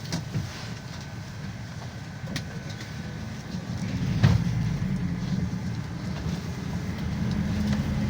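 Inside a GAZelle Next minibus on the move: a steady low engine and road rumble with scattered knocks and rattles. The loudest is a jolt about four seconds in, after which the rumble grows louder.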